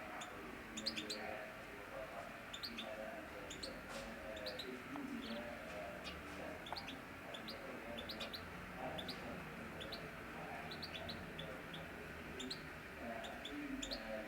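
Domestic canaries chirping, many short high chirps coming close together and overlapping.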